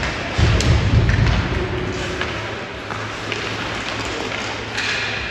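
Ice hockey game sounds in an arena: a heavy low thudding about half a second in, then scattered sharp clacks of sticks and puck, over a steady low hum.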